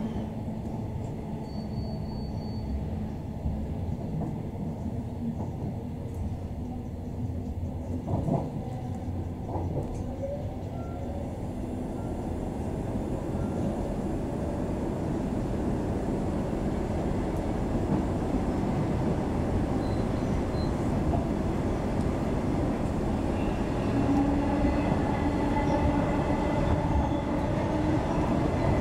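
Queensland Rail electric suburban train running, heard from inside the carriage: a steady rumble of wheels on track, with a steady whine joining in near the end.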